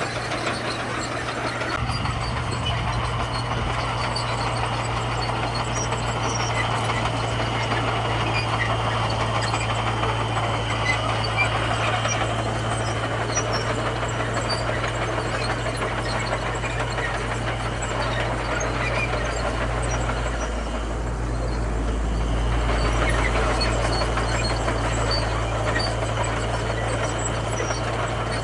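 Komatsu bulldozer's diesel engine running steadily while it works. About three quarters of the way through, the note dips briefly and then swells deeper and a little louder.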